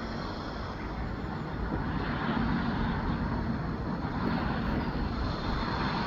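Jet airliner engine noise, a steady rushing rumble that grows louder about two seconds in as the aircraft draws nearer.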